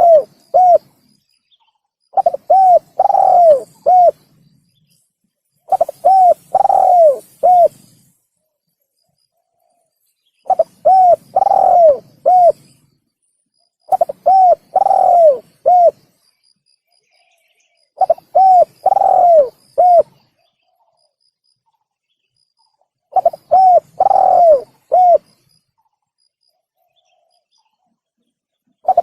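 Spotted dove (tekukur) cooing in repeated phrases. Each phrase is a quick run of short coos with one longer, arching note in the middle, and phrases come about every four seconds with silent gaps between. This is the dove's song played as a hunter's lure call to draw in wild spotted doves.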